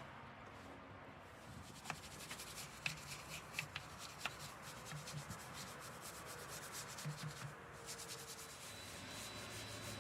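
Faint scrubbing and rubbing, as of hand cleaning, with a run of scattered clicks and light knocks through the middle.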